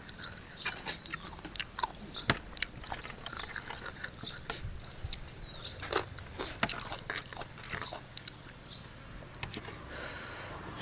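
Close-up eating: a person biting and chewing, with frequent irregular crunches and sharp clicks, and a short hiss near the end.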